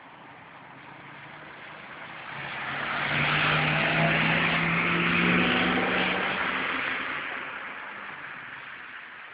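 A car passing by on a rain-flooded street: its engine hum and the hiss of its tyres through the water swell for a few seconds and then fade.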